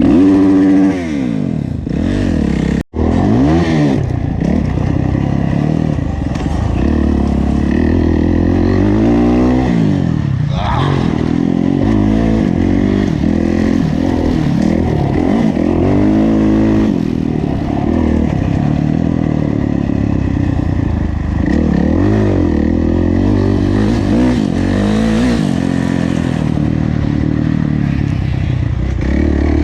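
Kawasaki KX450F four-stroke single-cylinder motocross engine under racing load, its pitch rising and falling over and over as the throttle is opened and shut through the gears. The sound cuts out for a split second just before 3 s.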